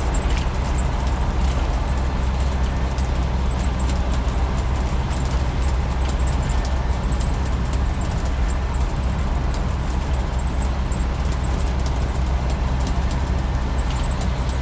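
Land Rover 90's 300Tdi four-cylinder turbodiesel running steadily under way, heard from inside the soft-top cabin with a deep rumble and road noise. The exhaust note is a little throaty, which the driver puts down either to the side screens being up or to a single-silencer exhaust.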